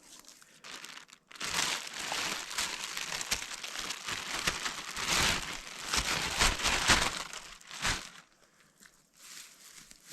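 Crinkling and rustling of something being handled, full of small sharp crackles. It starts about one and a half seconds in and stops about eight seconds in, with a fainter rustle near the end.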